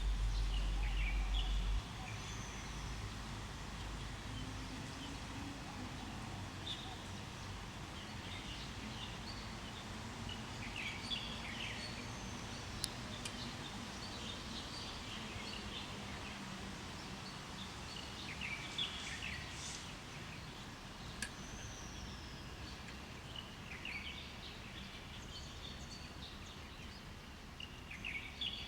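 Several birds chirping and calling at scattered intervals, with a few short descending whistled notes, over a steady low background rumble. A loud low rumble fills the first two seconds, then drops away.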